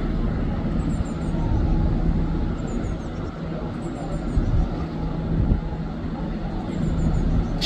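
A diesel bus engine running with steady low rumble amid street traffic. A short, sharp hiss of air cuts in right at the end.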